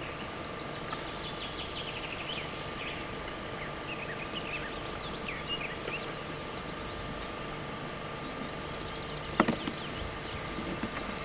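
Small birds chirping in short, scattered calls over a steady background hum, with a single sharp knock about nine seconds in.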